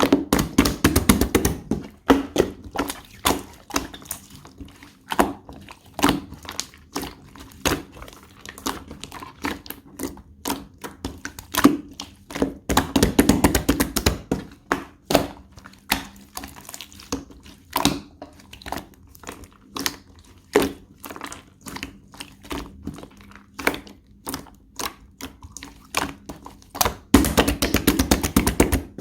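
Clear blue slime being pressed and squished by hand, giving a steady run of sticky clicks and small pops. Three times the pops come thick and fast, near the start, about halfway through and near the end.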